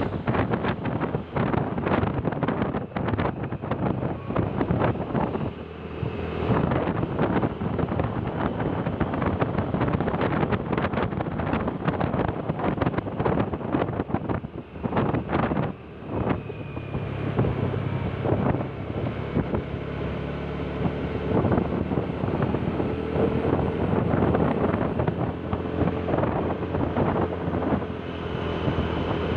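Wind buffeting the microphone on a moving vehicle, with a steady engine hum underneath and irregular bumps from the road.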